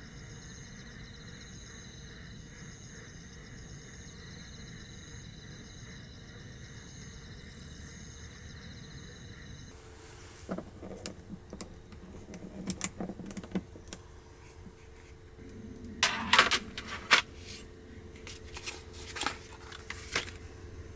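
Light clicks, taps and clatter of small objects being handled, over a steady low hum, loudest about two-thirds of the way through. Before that comes a stretch of steady background with faint, evenly repeating high chirps.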